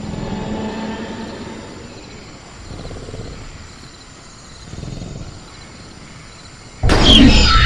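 Sound-effect velociraptor growling low, with two softer rumbling growls after it. Near the end comes a sudden loud crash together with a shrill screech that glides downward, the loudest moment.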